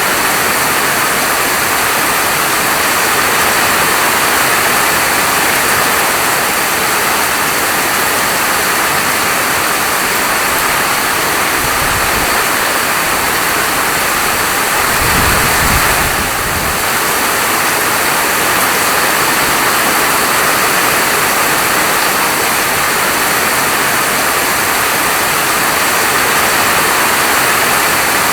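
Steady heavy rain falling, an even hiss, with two short low rumbles near the middle.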